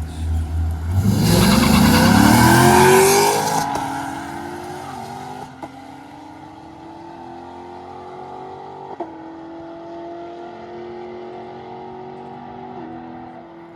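A car launching hard at full throttle: the engine revs up loudly with tyre noise. It then accelerates away through about five upshifts, its pitch climbing and dropping back at each shift as it fades into the distance.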